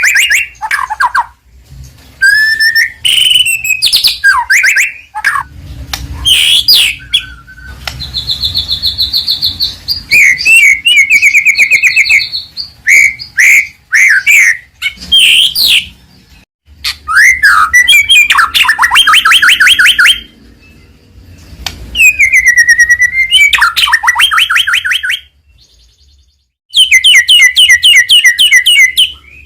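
White-rumped shama (murai batu) singing loudly in a long run of varied phrases: clear whistles, sweeping slurs and fast rattling trills, broken by a couple of short pauses.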